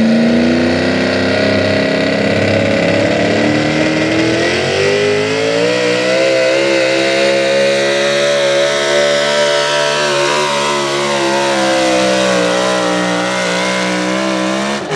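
Big-block V8 engine of a 4x4 pulling truck running flat out under load. It climbs steadily in pitch over the first few seconds, holds at high revs, then sags slightly near the end.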